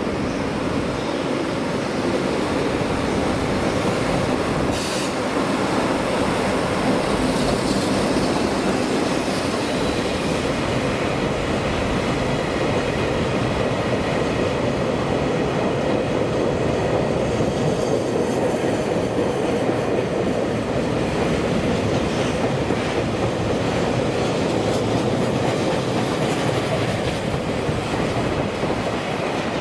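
A train running past on the rails at a station, a loud steady rumble of wheels on track throughout. There is a faint high wheel squeal in the second half.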